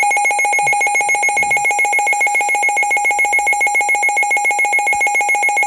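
Midland WR400 weather radio's built-in alert alarm: a loud electronic beep pulsing rapidly, about eight times a second, signalling that a severe thunderstorm warning has been received.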